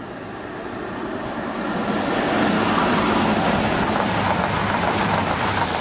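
Diesel passenger train passing at speed alongside the platform. It grows louder over the first two seconds or so, then holds as a steady rush of wheels on rail with a low engine hum underneath.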